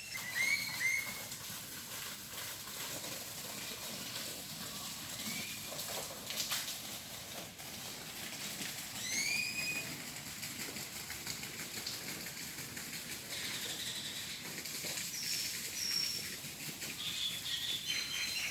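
Songbirds singing: short whistled notes that sweep upward, a few at the start, a cluster about nine seconds in and more near the end, over a steady hiss of background. A couple of brief knocks come about six and seven seconds in.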